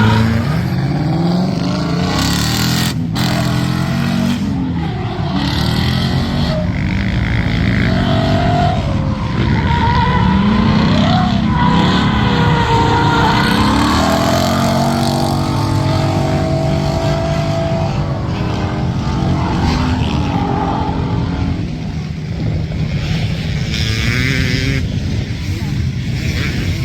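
Ford Mustang S550 drifting: the engine revs up and down repeatedly as it slides, with tyres squealing and skidding.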